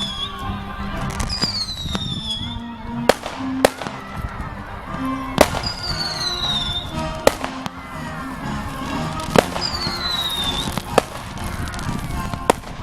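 Aerial fireworks going off: about seven sharp bangs at uneven intervals, together with several whistles that each fall in pitch over about a second. Music plays underneath the whole time.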